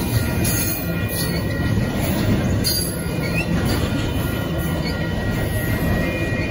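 Double-stack intermodal freight cars rolling past: a steady rumble of steel wheels on rail, with a thin, steady high squeal over it and a few sharp clicks.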